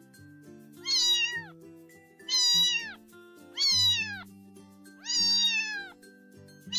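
A domestic cat meowing four times, about one meow every second and a half, each call short and falling in pitch at its end, over light background music.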